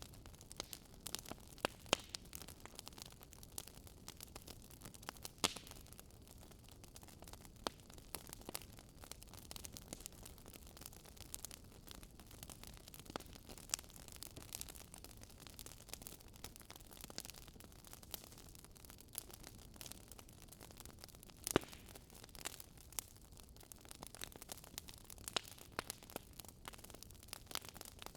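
Wood fire crackling: irregular sharp pops and snaps, several a second, over a faint steady hiss, with a few louder pops scattered through.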